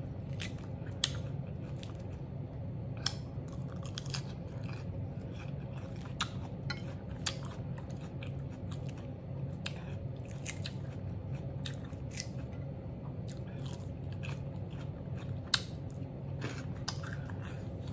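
Close-miked chewing of a mouthful of salad, crisp lettuce and croutons made from garlic toast, with sharp crunches every second or so.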